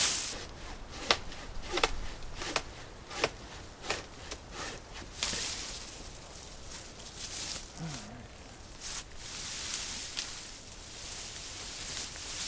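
Person working through dry woodland brush: a run of sharp twig and branch snaps, about one every 0.7 s over the first five seconds, then rustling of leaves and branches.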